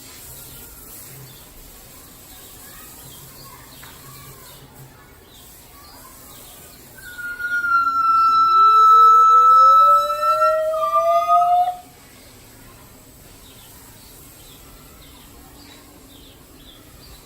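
Gibbons calling: about seven seconds in, a long loud high hoot holds nearly steady while a second call rises steadily in pitch beneath it. Both stop abruptly about five seconds later. Around them are only faint short chirps.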